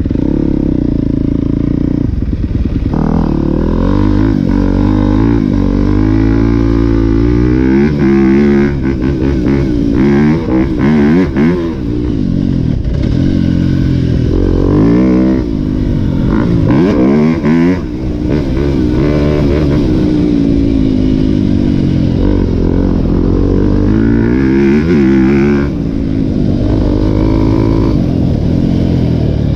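Yamaha YZ250F four-stroke dirt bike engine under hard riding, heard close up from the rider's helmet. The engine pitch climbs and falls over and over as the throttle is opened and chopped, with brief shut-offs about ten, twelve and eighteen seconds in.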